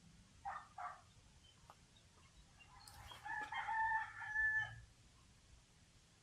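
A rooster crowing once: a drawn-out call of nearly two seconds at a steady pitch, after two short calls near the start.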